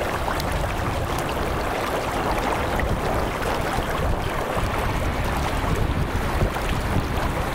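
Steady rush of floodwater pouring from a ruptured 24-inch water main, with wind buffeting the microphone.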